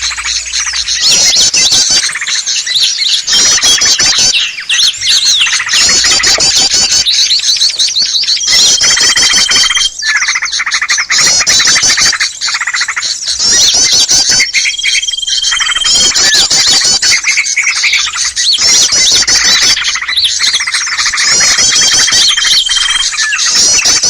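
Bird-lure recording of many small songbirds chattering and calling at once in a loud, dense, fast chatter, with a single held whistle note coming in four times, each lasting about a second.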